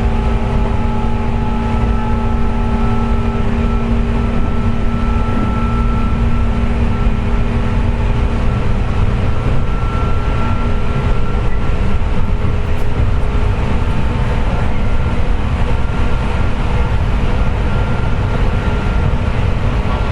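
JR West 201-series electric train running at steady speed: the rumble of wheels on rail with a steady whining 'jet sound' over it, which comes from traction motor bearings damaged by electrolytic corrosion.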